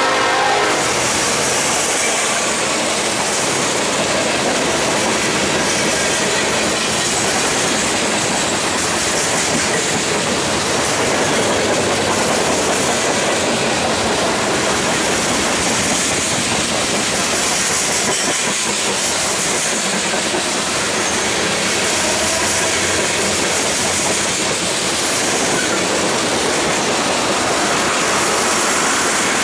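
Freight cars of a mixed freight train rolling past close by: steady rolling noise of steel wheels on rail, with a high hiss that swells and fades every couple of seconds as the cars go by.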